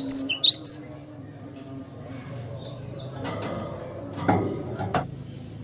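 Cinereous tit (gelatik batu) calling: a quick run of three or four loud, sharp high chirps in the first second, then softer scattered chirps, over a steady low hum.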